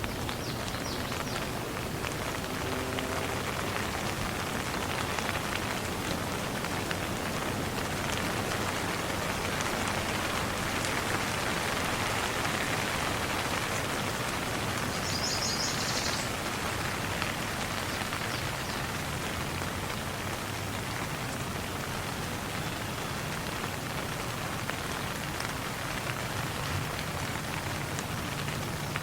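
Steady rain falling and pattering on surfaces, with a quick run of high chirps about halfway through.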